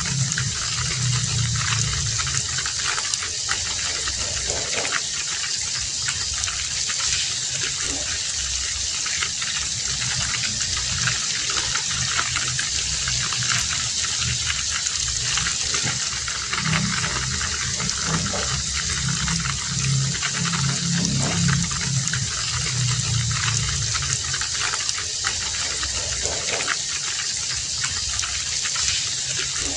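Heavy rain falling steadily: a dense, even hiss with scattered close drop impacts. A low rumble comes and goes underneath, near the start and again around the middle.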